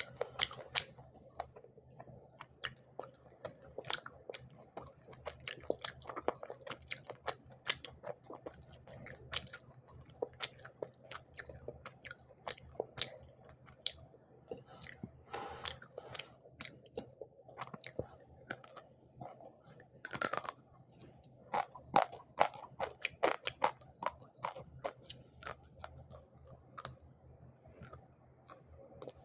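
Close-miked chewing of fried hilsa fish eaten by hand: a dense, irregular run of wet mouth clicks and smacks, with one longer, louder mouth sound about two-thirds of the way through.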